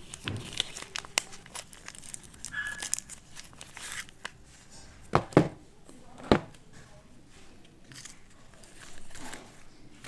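Packaging wrapper being crinkled and torn open by hand. There are many small crackles, and three louder sharp clicks a little past the middle.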